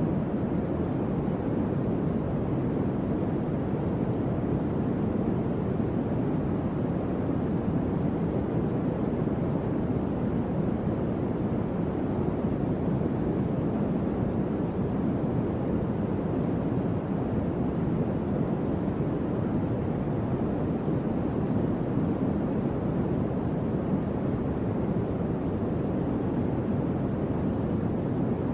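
Electric fan running steadily, giving an even, low whooshing noise with no clicks or changes.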